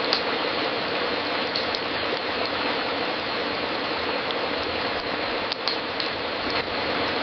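Wood fire crackling in a fireplace: a steady hiss with scattered, irregular sharp pops and snaps.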